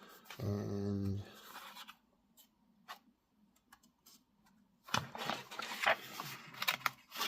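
Small plastic model-kit parts being handled and fitted together: a run of light clicks and scrapes in the last two seconds or so, after a short quiet spell with a few faint ticks.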